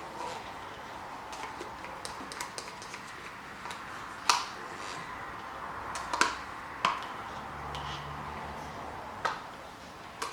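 Light clicks and taps of paint bottles and a plastic cup being handled while acrylic paint is poured into the cup. A few sharper knocks come about four, six, seven and nine seconds in.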